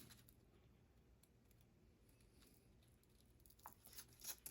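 Near silence, with a few faint clicks and taps near the end from handling the sandpaper and knife.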